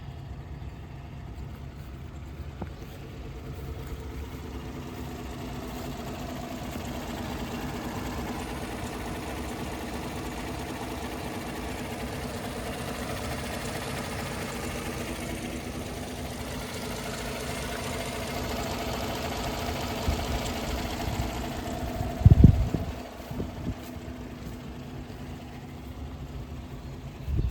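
2014 Chevrolet Silverado pickup's engine idling steadily, growing somewhat louder toward the middle. A heavy thump about 22 seconds in, the loudest sound here, and a smaller one at the end.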